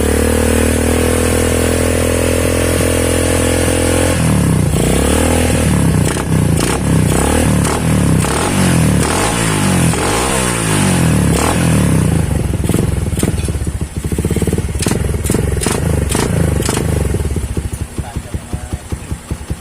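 Honda Megapro Primus single-cylinder motorcycle engine running through a drilled-out (bobok) aftermarket GL-style Neotech exhaust, loud. It is held at steady high revs for a few seconds, then blipped up and down about once a second, then drops to a lumpy idle with crackling pops that fades near the end.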